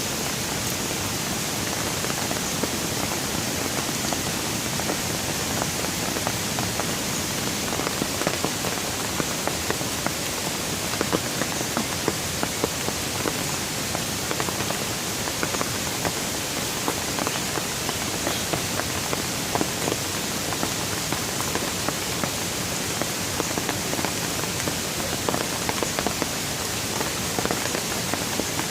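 Steady rain: an even hiss with many separate drops landing as small, sharp taps.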